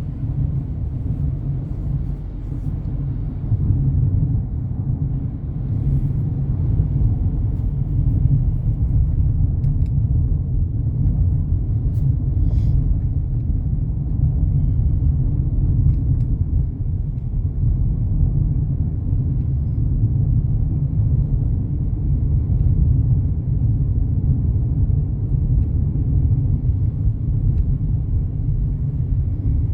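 Steady low road rumble of a vehicle driving along a highway.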